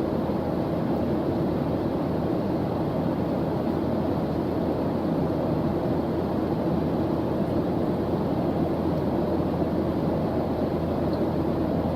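Steady white noise, even and unbroken, weighted toward low and middle pitches with little hiss on top.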